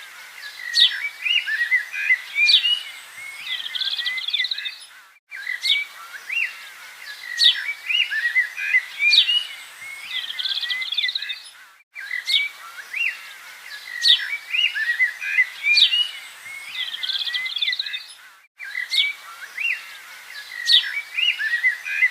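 Recorded birdsong: many short chirps and whistles, the same stretch looping about every six and a half seconds with a brief gap at each loop.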